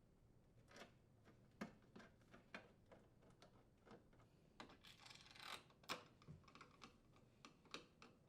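Faint, irregular clicks and taps of a Phillips screwdriver threading screws back in to join a dishwasher's inner and outer door panels, with a short scratchy rasp about five seconds in.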